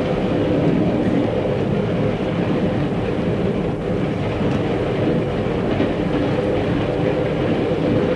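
A train running, with a steady rumble that holds at an even level throughout.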